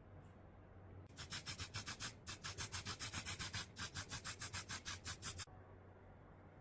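Quick back-and-forth hand rubbing strokes, about eight a second, in three runs with two short pauses, starting about a second in and stopping about a second before the end.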